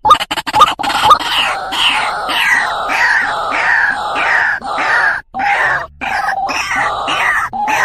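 White-breasted waterhen (truwok) calling: a continuous run of rapid, harsh, repeated notes, each bending down in pitch, with a few brief breaks after the middle. This is the lure call used to draw in a male.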